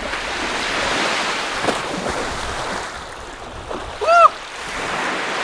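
Lake Superior waves washing steadily onto a sand beach. A single short, high cry cuts through about four seconds in.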